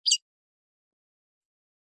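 A red-cowled cardinal (galo-de-campina) gives one short, high note of its açoite song right at the start, then pauses between phrases.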